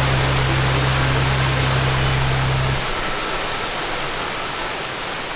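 Steady rushing of a waterfall. A deep low hum under it cuts off suddenly about three seconds in.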